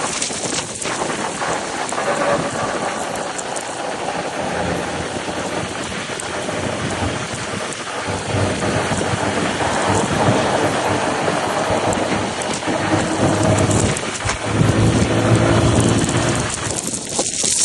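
Scania truck making a loud, continuous rushing roar with a deep rumble underneath, swelling somewhat in the last few seconds.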